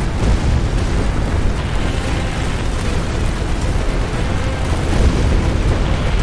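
Tornado wind sound effect: a loud, continuous heavy low rumble of storm wind, steady throughout.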